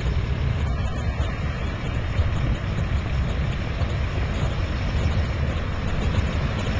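Navy N2S Stearman biplane's radial engine running steadily at low taxi power, with a deep, even throb.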